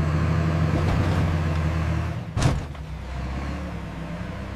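Vehicle engine running with a steady low drone that starts abruptly, and one brief sharp noise about two and a half seconds in.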